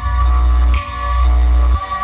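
Loud electronic music played through a large outdoor sound system, with heavy bass notes that change about once a second.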